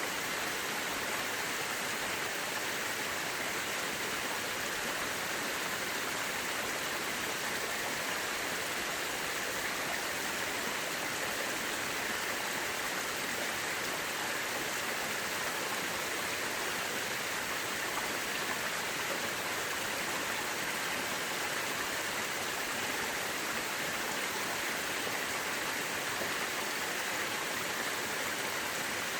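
Mountain river rushing steadily over rocks, a constant even hiss of water with no breaks or separate splashes.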